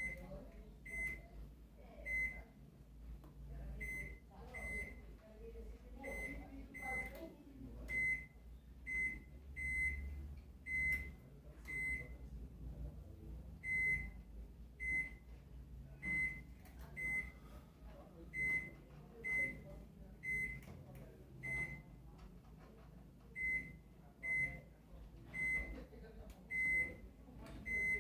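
A microwave oven's keypad beeping as its buttons are pressed, about thirty short high-pitched beeps at uneven intervals, over a low hum.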